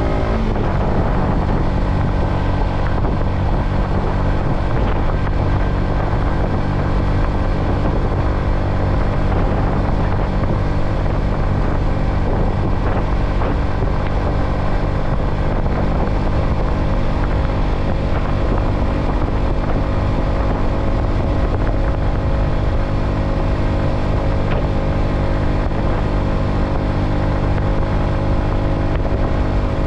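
Yamaha XSR125's 125 cc single-cylinder four-stroke engine running at a steady cruise, heard from the rider's seat together with wind and road noise. The engine note shifts about half a second in, then holds steady.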